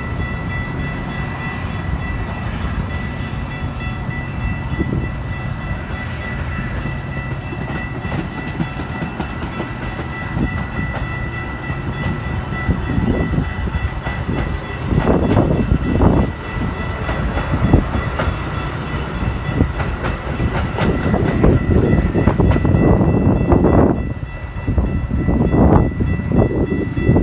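A train passing close by: a heavy rumble, with steady high-pitched tones throughout and wheels clicking over the rail joints, growing louder in surges in the second half.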